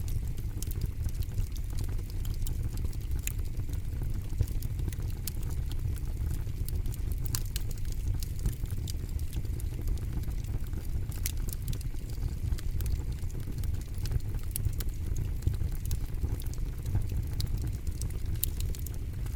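Campfire burning: a low steady rumble of flames with frequent irregular sharp crackles and pops from the burning wood.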